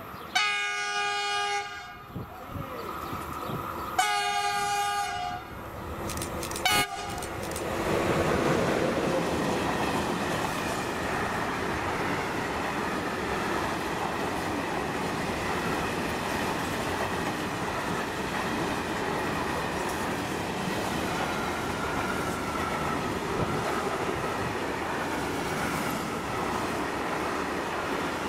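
Freight train horn sounds two long blasts and a short third as the train approaches. The train then passes close by, a long string of covered hopper wagons making a steady rolling rumble and rattle of wheels on the rails.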